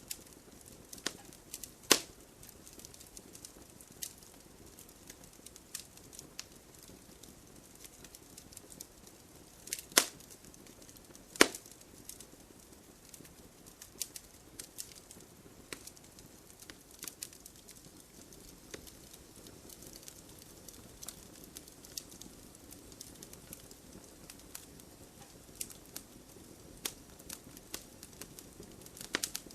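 Wood fire burning in a fireplace: irregular crackles and small pops over a soft low hiss, with three sharper pops standing out at about 2, 10 and 11 seconds in.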